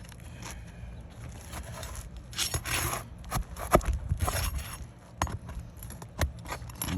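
Asphalt roof shingle being pried up to reach its nails: scraping as the sealed shingle is worked loose, with a series of short knocks and clicks, loudest in the middle.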